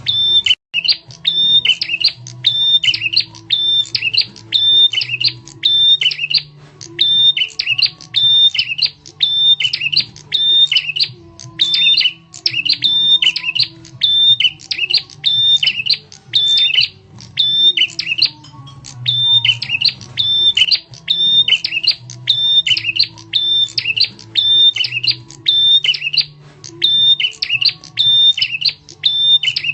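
Prenjak (prinia) lure call, a loud, sharp, high chattering phrase of quick notes repeated without pause, about every second and a half.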